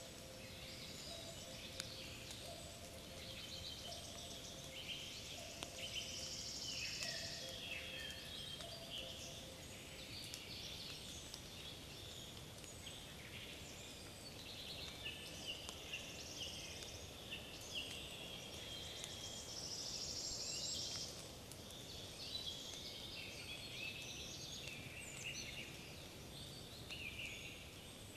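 Forest birdsong: several small birds singing and calling over one another, a busy mix of high chirps and trills, over a faint background of wind in the trees.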